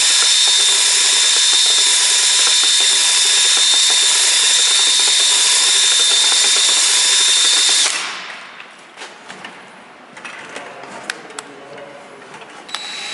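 A power tool running steadily with a high whine, stopping suddenly about eight seconds in. Scattered light clicks and knocks follow.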